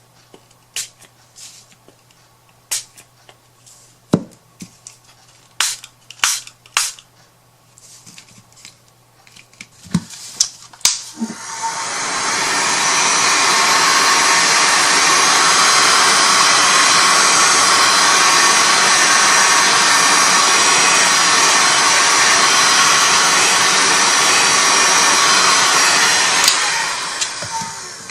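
Scattered clicks and knocks of small items being handled. About eleven seconds in, a hand-held electric air blower switches on, runs steadily at full speed for about fifteen seconds, then switches off.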